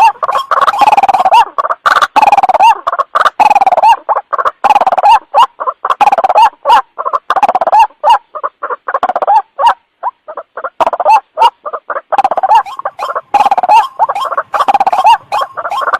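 White-breasted waterhen (ruak-ruak) calling loudly in a fast, unbroken series of short repeated croaking notes, a lure call for drawing the birds in. The calls thin out for a moment around the middle.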